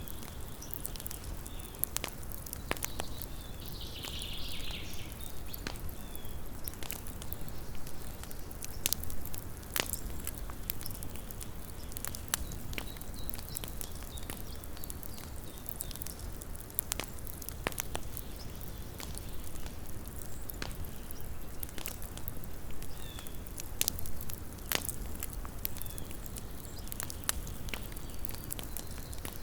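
Small wood campfire crackling: sharp, irregular pops and snaps over a low, steady rumble of burning.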